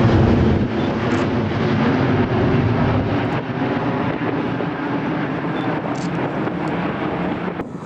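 Airliner engine noise from an aircraft on runway 15, loud at first. The deep rumble drops away about a second in and the rest fades gradually, then cuts off sharply near the end.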